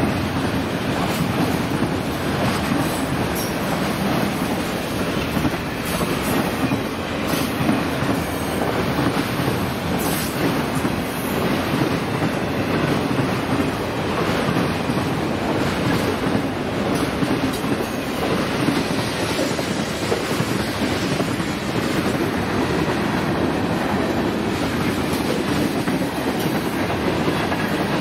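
Florida East Coast Railway freight train rolling past at track level, its steel wheels on the rails making a steady, unbroken noise.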